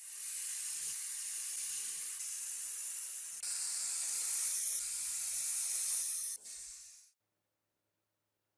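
Steady spraying hiss that gets louder about three and a half seconds in, dips briefly near the end and stops after about seven seconds.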